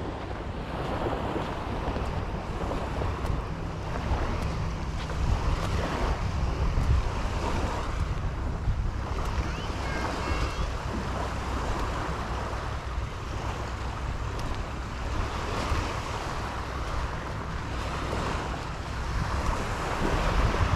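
Waves breaking and washing on a sandy beach, with wind buffeting the microphone in a steady low rumble.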